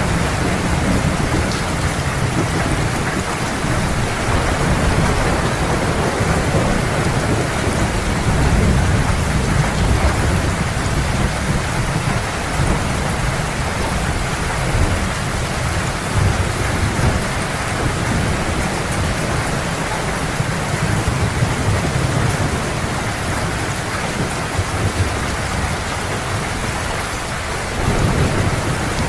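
Heavy rain falling steadily, with low thunder rumbling continuously underneath. The rumble swells a little louder about a third of the way in and again near the end.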